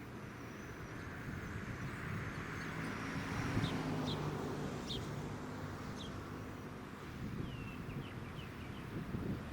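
Jet aircraft passing at a distance: a rushing engine sound with a low hum under it, swelling to its loudest about three and a half seconds in and then slowly fading. Small birds chirp briefly several times over it.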